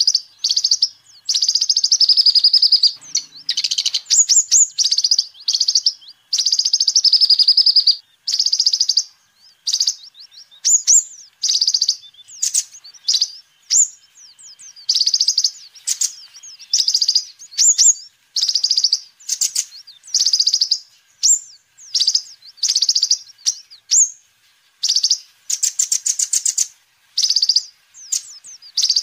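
Kolibri ninja sunbird singing: fast, high-pitched trills and chittering phrases, one after another with brief pauses.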